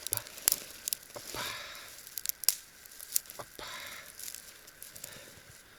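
Dry twigs and brushwood being handled and broken: a few sharp snaps, with short rustling in between.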